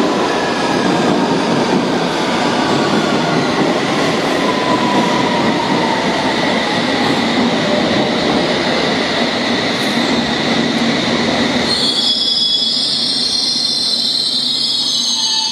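London Underground District line S7 Stock train running into the platform, its whine falling in pitch as it slows. About twelve seconds in, high wheel squeal starts as it comes to a stop.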